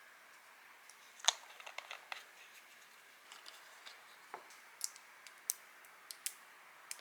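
Scattered light clicks and taps of small objects being handled, a dozen or so irregular ones over a faint room hiss, the sharpest about a second in.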